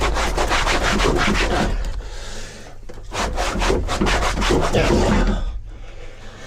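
Rapid back-and-forth scraping strokes, several a second, from a hand tool worked against a hard surface. They come in two runs, with a short pause about two seconds in, and trail off near the end.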